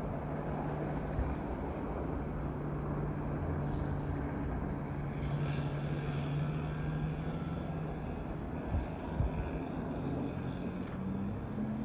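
A motor running steadily with a low hum over a wash of outdoor noise; its pitch shifts a little near the end.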